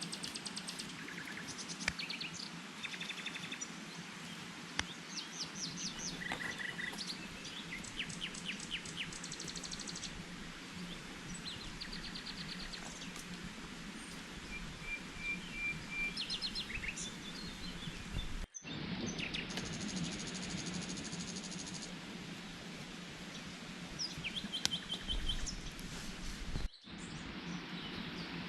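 Wild birds chirping in short, rapidly repeated trills over a steady hiss of outdoor ambience, with a few sharp knocks. The sound drops out briefly twice, about two-thirds of the way in and near the end.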